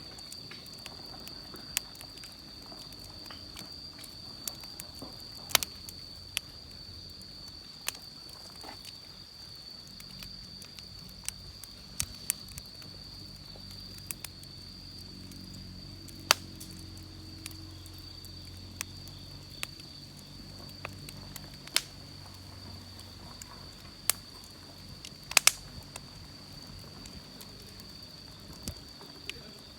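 Wood campfire crackling: scattered sharp snaps and pops at irregular intervals, a few of them much louder, over a soft steady hiss.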